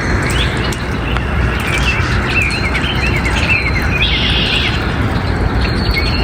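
Birdsong: several birds chirping in quick short notes, with a brief buzzy trill about four seconds in, over a steady low rushing background noise.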